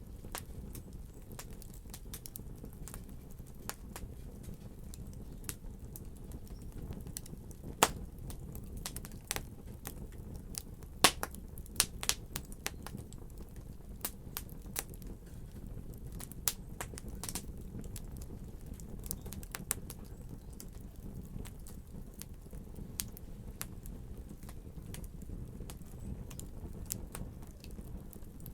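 Wood fire in a fireplace crackling, with irregular sharp pops over a steady low rumble of burning; a few pops stand out louder, about eight seconds in and again around eleven and twelve seconds.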